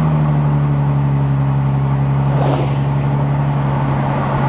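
Exhaust drone of a 2015 Lexus RC 350's 3.5-litre V6 through an axle-back exhaust with the mufflers removed, holding a steady pitch while the car is driven.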